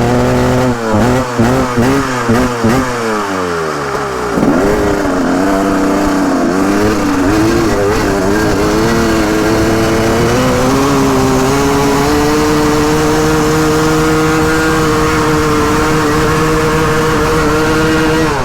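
Motorcycle engine revved hard in quick repeated blips for about four seconds, then held at steady high revs for the last several seconds before cutting off at the end.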